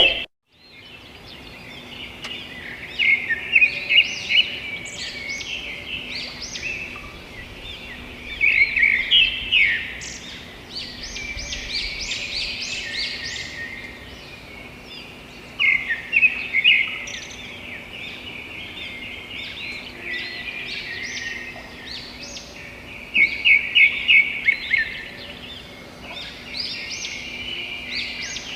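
A chorus of wild birds chirping and calling together, with loud bursts of rapid repeated notes every several seconds.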